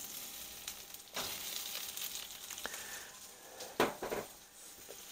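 Cubed andouille sausage sizzling steadily in oil on a Blackstone flat-top griddle just after being poured on, with a few sharp knocks, the loudest about four seconds in.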